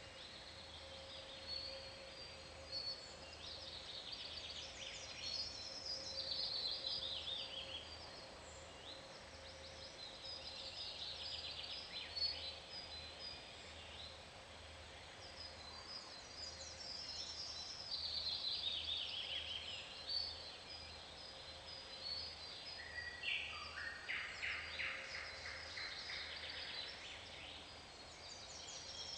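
Birds singing, with repeated descending trills and chirps coming back every few seconds.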